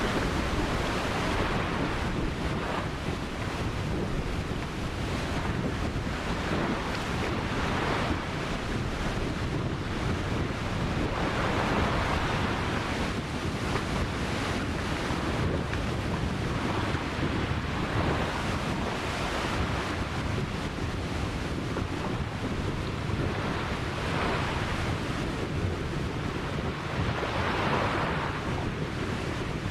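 Ocean surf breaking and washing up a beach: a steady rush of water that swells every few seconds as each wave comes in.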